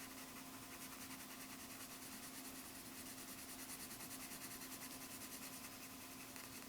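Faint steady room tone: a low electrical hum with hiss, and no distinct drawing strokes.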